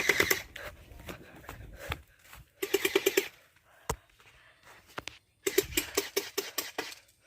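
Electric gel blaster firing on full auto in three rapid bursts: one at the start, a short one about two and a half seconds in, and a longer one about five and a half seconds in.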